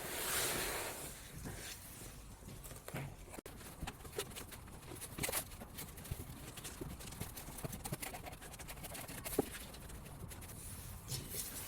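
Preserved moss pieces being taken out of a box and set down on a desk: a brief rustle at the start, then scattered light knocks and taps as the pieces are handled.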